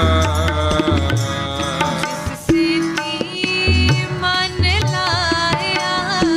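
Sikh kirtan music: a wordless passage with a gliding melody line over hand-drum strokes, including repeated deep bass booms.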